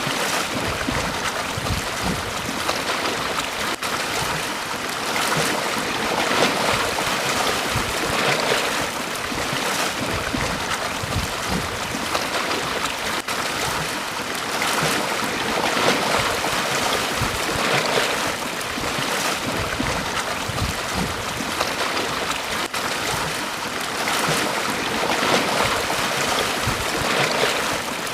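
Small waves breaking and washing on a beach shore, a continuous hiss of surf that swells and eases every couple of seconds.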